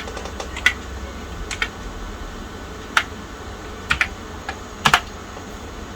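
Keys being typed on the Tandy 1000 EX's keyboard: about ten separate keystrokes at an uneven pace, with short pauses between them, as DOS commands are entered.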